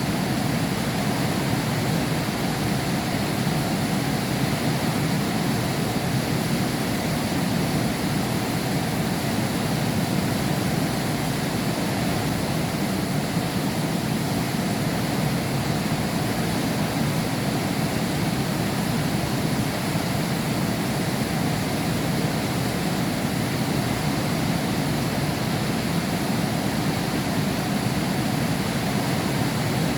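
Heavy rain falling steadily, heard from behind window glass: an even, unbroken rush with no thunder.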